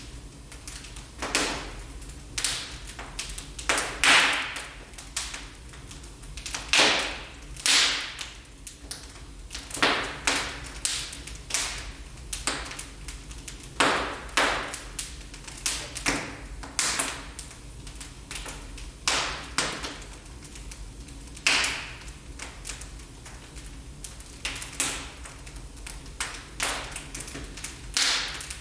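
Wood fire crackling in a fireplace: irregular sharp pops and snaps, about one or two a second, some much louder than others.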